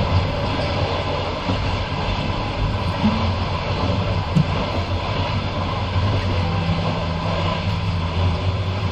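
Passenger train running on the rails, heard from inside the carriage: a steady rumble of wheels on track with a low hum and an occasional sharp clack.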